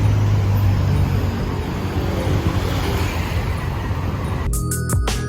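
Road traffic noise on a city street, with a steady low engine hum over the rumble. About four and a half seconds in, electronic background music with a hard beat cuts in.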